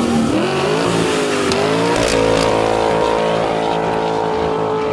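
2018 Ford F-250 Super Duty's 6.2-litre V8 revving through a Flowmaster true dual exhaust. The revs climb over about two seconds, then are held steady at high revs.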